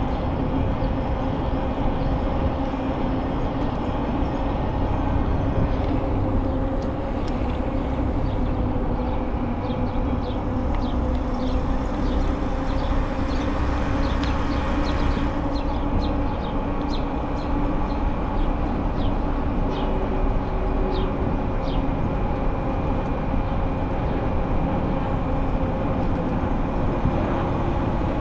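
Steady rumble of a bicycle rolling along a park path, with a constant hum from the spinning tyres. Short bird chirps come now and then, most often in the middle stretch.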